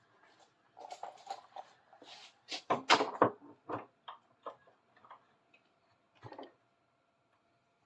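Irregular metal clinks and knocks as a large adjustable wrench is handled and worked at a bench vise. They are busiest and loudest about three seconds in, then thin out to a few scattered clicks, over a faint steady hum.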